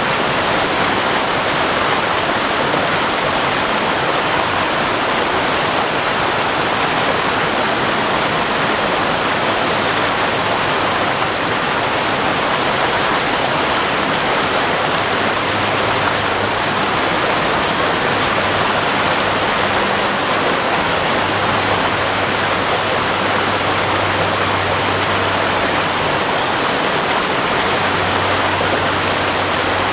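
Waterfall in flow, its falling water making a steady, even rush with no change throughout.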